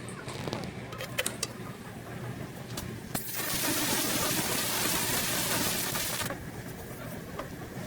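Hiss of a pressurised spray on a dirty exhaust oxygen sensor being cleaned, starting and stopping abruptly and lasting about three seconds, with a few sharp clicks before it.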